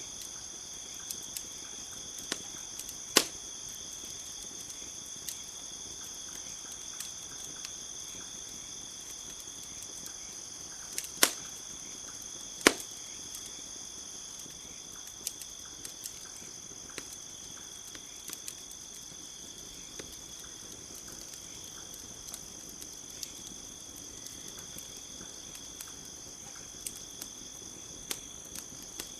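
Campfire crackling, with scattered small crackles and three sharp pops about 3, 11 and 13 seconds in, over a steady high-pitched chorus of insects.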